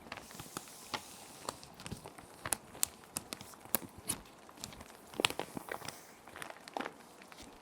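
Plastic sheet protectors crinkling and crackling in irregular sharp bursts as paper sheets are handled and slid into them, over a steady soft rain ambience.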